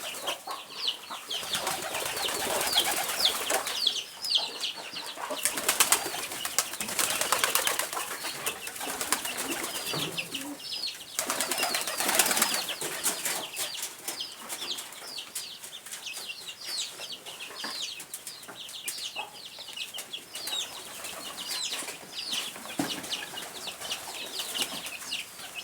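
Birds at the feeders chirping continuously in many short, high, falling notes, several a second, with a few louder flurries of flapping wings, the loudest about twelve seconds in.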